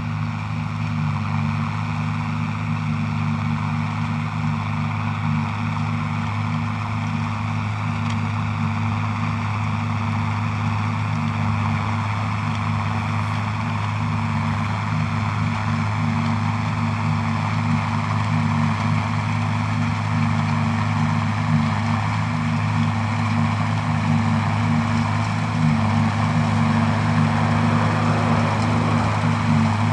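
Diesel farm tractor engine running steadily under load, growing gradually louder.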